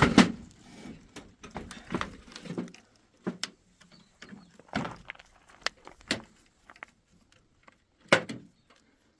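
Irregular wooden knocks and thumps from work on a door, a dozen or so strikes at uneven spacing, with a loud knock at the start and another about eight seconds in.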